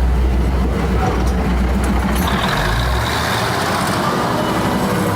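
A heavy engine running with a steady deep rumble; its low drone drops away and shifts about three seconds in.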